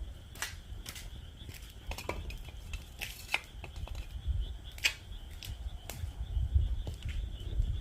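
Wood fire crackling in a fire pit, with irregular sharp pops and snaps. A steady high chorus of calling frogs runs underneath, over a low rumble.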